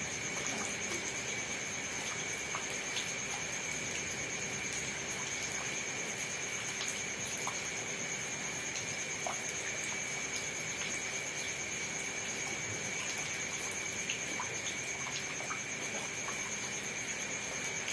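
Steady rain falling, with scattered drops ticking, over a constant high-pitched calling of night insects.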